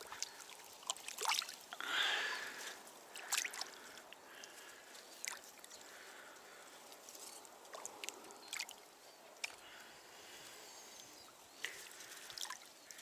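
Handling noises in a small fishing boat: scattered sharp knocks and clicks, with a short rushing splash about two seconds in.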